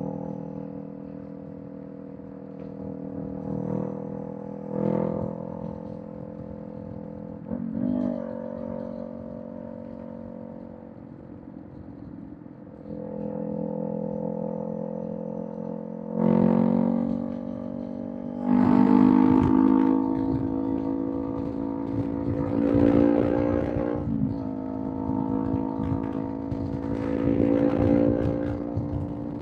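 Kawasaki Z400 parallel-twin engine running through a Villain M1 aftermarket exhaust. It holds steady, moderate revs for about the first half, then gets much louder in pulls of rising revs starting about two-thirds of the way in. There is a brief drop near the end before a final pull.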